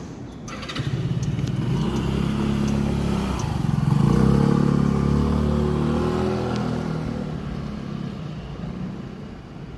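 Calico cat purring loudly close to the microphone, a fast low rumble that swells over the first few seconds and fades toward the end.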